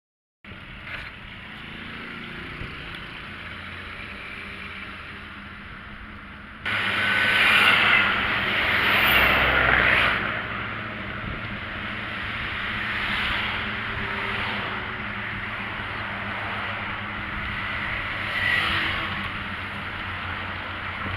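Street traffic with vehicles passing, a steady road noise that jumps suddenly louder about six and a half seconds in, swelling most loudly a few seconds later and again briefly twice near the end.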